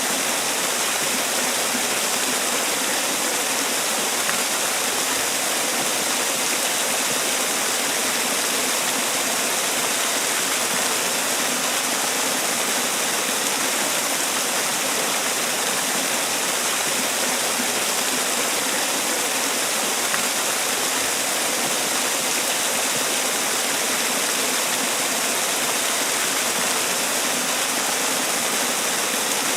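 Man-made waterfall: water pouring and splashing in a steady, even rush.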